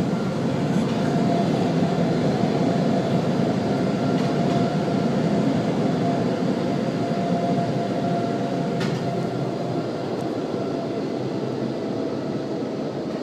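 Steady rushing noise with a faint steady hum, heard from inside a car, fading slowly in the last few seconds.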